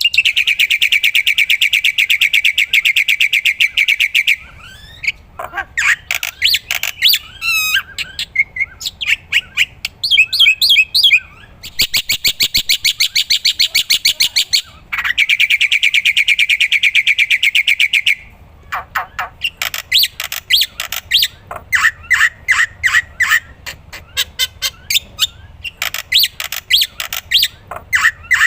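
Black-winged starling (jalak putih) singing actively. It mixes long, very fast trills of repeated notes with varied whistles, chirps and squawky notes.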